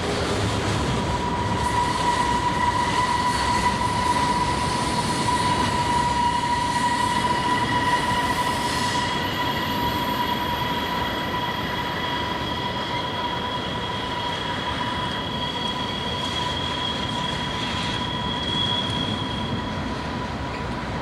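CSX train cars rolling past with a steady rumble, their wheels squealing in a long, even high whine; a second, higher squeal joins about halfway through.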